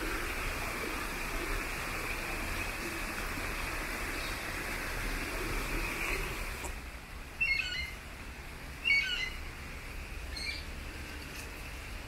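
A steady rushing hiss cuts off suddenly about seven seconds in. A bird then calls three times in short chirping phrases, about a second and a half apart.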